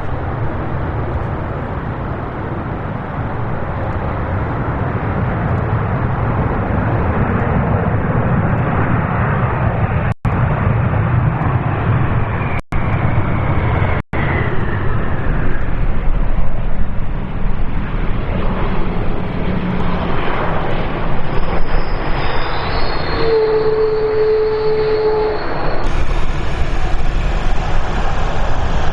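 Airbus A321 freighter's jet engines on landing, a steady roar that builds over the first ten seconds or so, with a high whine that glides down in pitch about halfway through. The sound drops out for an instant three times, and near the end it cuts abruptly to another jet's roar.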